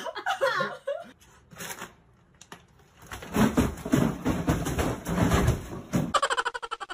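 A bag tumbling down a carpeted staircase: a run of soft, uneven thumps and knocks lasting about three seconds. A brief rapid pulsing sound follows near the end.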